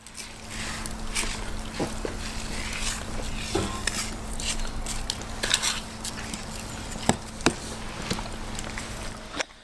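Raw snake meat being salted and worked in a dish: a steady rustling hiss with scattered clicks and knocks, over a faint low hum.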